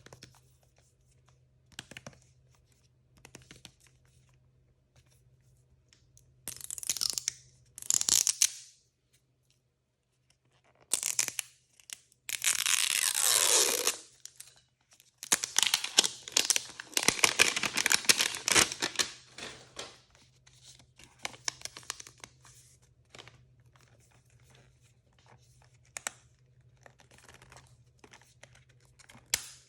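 Plastic blind-bag packaging being torn open and crinkled by hand. A long tear comes about twelve seconds in, then a spell of crinkling, with small taps and clicks between.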